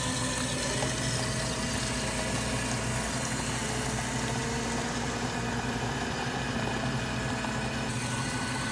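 Hot chocolate dispensing machine running steadily, its pump humming as it pours into a large cup.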